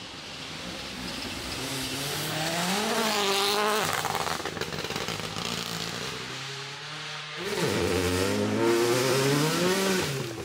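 Rally car engine accelerating hard, the note climbing in pitch, breaking off about four seconds in, then climbing again near the end. A hiss of tyres and loose stones runs over the engine throughout.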